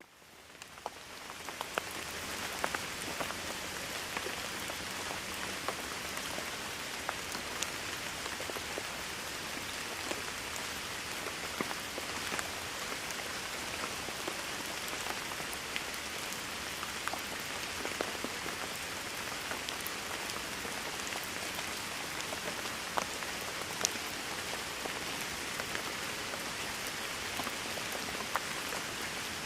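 Steady rain falling, an even hiss with many individual drops ticking on a surface. It fades in over the first couple of seconds and then holds steady.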